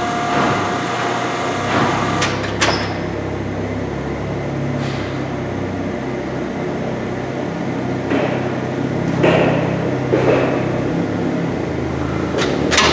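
LeBlond Regal engine lathe running with its spindle at 25 rpm, a steady hum from the motor and gearbox. A sharp knock comes about two and a half seconds in, and a few short rattles follow in the second half.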